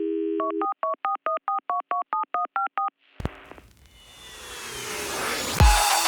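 Telephone dial tone, cut off by about a dozen quick touch-tone keypad beeps as a number is dialled. Then a click and a rising swell that leads into electronic music with deep, thudding beats near the end.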